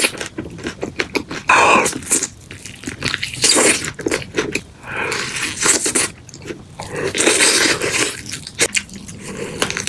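Crispy fried chicken being bitten and chewed close to the microphone: repeated loud, crackly crunches of the batter coming in bursts, with chewing between them.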